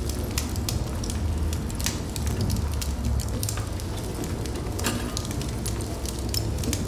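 Wood fire burning in a fireplace: a steady low rumble of flame with irregular crackles and sharp pops from the logs, a few louder snaps scattered through.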